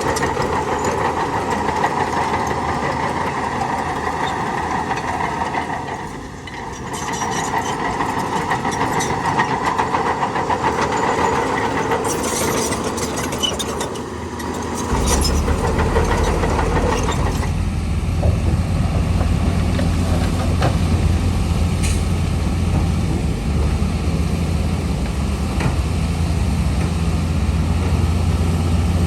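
Heavy diesel earthmoving machinery running. For the first half the engine note sits in the middle range. About halfway through a deep low rumble sets in and carries on while the higher note fades, with a few clanks in between.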